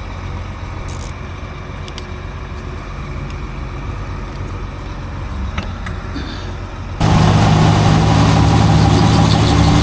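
Diesel engine of heavy farm machinery running steadily; about seven seconds in the sound turns suddenly much louder.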